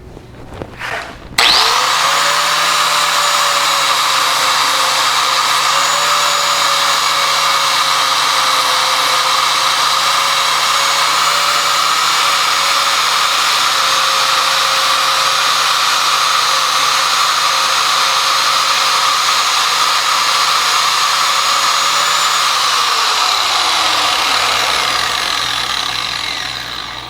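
4-inch angle grinder with an 80-grit flap disc starting about a second and a half in, its steady whine running while it sands away a plastic mounting tab. Near the end it is switched off and winds down, the pitch falling.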